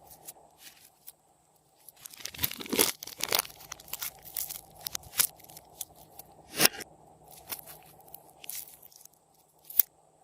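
Slime being squeezed and worked by hand, giving irregular crackles and pops, which start about two seconds in.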